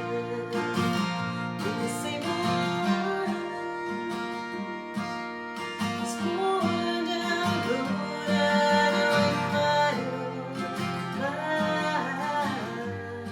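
Acoustic guitar played under a folk vocal, a live performance of a slow folk song.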